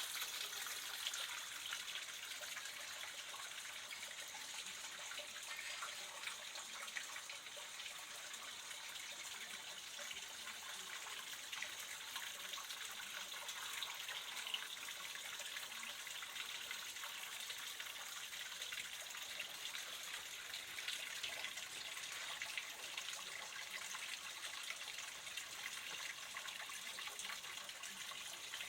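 Water trickling and splashing in a small artificial stream, a steady babbling hiss.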